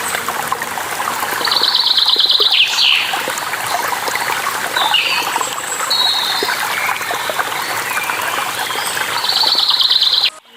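Steady rush of waterfall water with birds chirping over it: a fast trill of repeated high notes about a second long, heard twice, near the start and near the end, and a few short chirps between. The sound cuts out abruptly just before the end.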